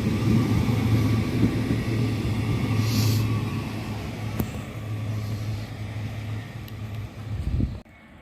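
Class 331 electric multiple unit at a station platform: a steady low hum with rumble that slowly fades, a brief hiss about three seconds in, and the sound cuts off suddenly near the end.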